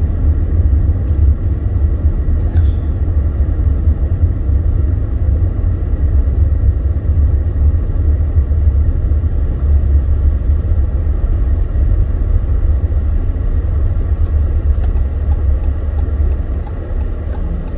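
Steady low rumble of a car being driven on snow-covered roads, heard from inside the cabin.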